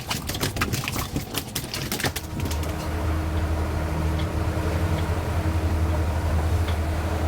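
Rapid clicking and knocking for about two seconds, then a steady low boat-engine drone that comes in and holds.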